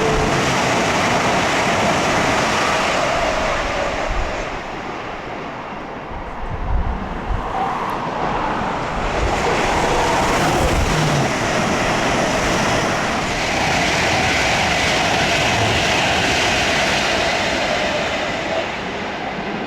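ScotRail passenger train running past on the main line: a steady rush of wheel and rail noise that dips briefly, swells again and eases off near the end.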